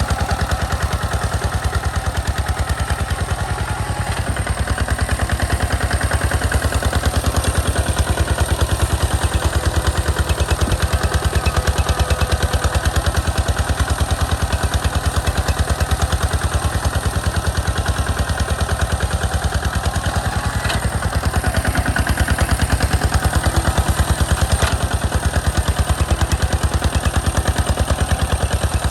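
Single-cylinder diesel engine of a walking hand tractor running steadily under load, with a rapid, even firing beat and some clatter.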